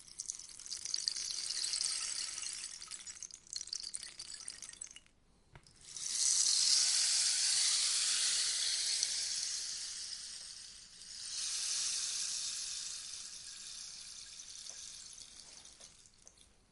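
Rainstick being tipped, its beads pouring through the tube in a rain-like hiss. It comes as three cascades: one that tails off about five seconds in, a strong one starting about a second later, and a last one from about eleven seconds in that slowly fades away.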